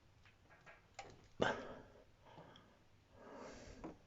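Knife blade clicking and scraping against the metal group head of a lever espresso machine while levering out a stuck rubber O-ring, with a sharp click about a second and a half in.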